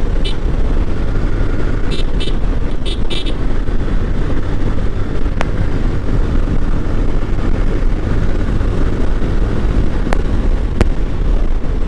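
Yamaha Fazer motorcycle running along at road speed, heard from the bike with a dense steady rumble of engine and road noise. A horn gives a run of quick short beeps about two to three seconds in.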